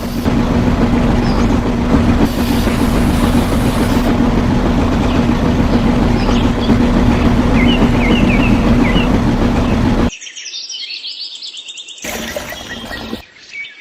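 A small engine running steadily at one speed, with birds chirping now and then. About ten seconds in it cuts off abruptly to a thinner, quieter sound.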